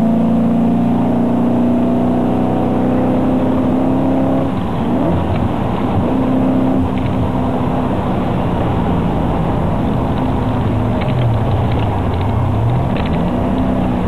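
Car engine heard from inside the cabin at highway speed, its pitch rising steadily under acceleration for about four seconds, then dropping at a gearshift. Near the end the revs dip and climb again over steady road noise.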